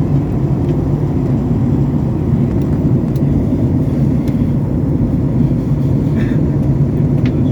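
Steady low rumble of airliner cabin noise during the descent to land: engines and rushing air around the fuselage, with a few faint ticks.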